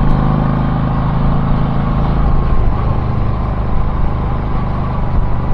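Car driving along, a steady engine and tyre rumble heard from inside the cabin.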